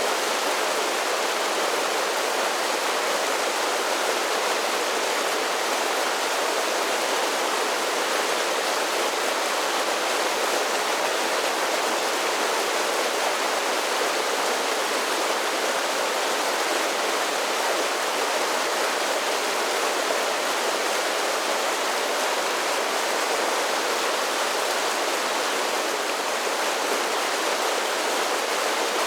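A series of small waterfalls on a mountain creek, water rushing and splashing in a steady, even hiss with little low rumble and no single splash standing out.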